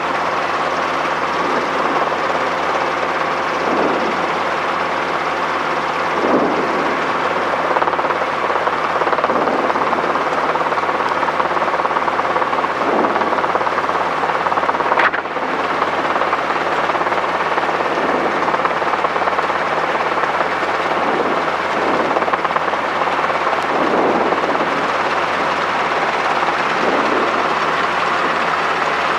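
Robinson R22 helicopter in flight, heard from the cockpit: the steady drone of its piston engine and rotors, with a single sharp click about halfway through.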